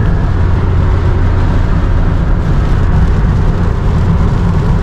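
Steady road noise inside a moving car driving through rain and wind: a low drone of engine and tyres on wet pavement.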